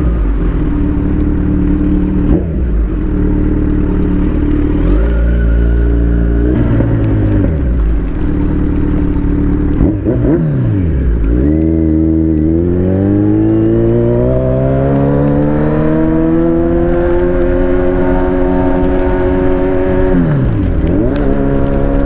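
Kawasaki Z900's inline-four engine running under way. The revs step with gear changes in the first few seconds, drop about ten seconds in, then climb steadily for several seconds and hold before dipping briefly near the end.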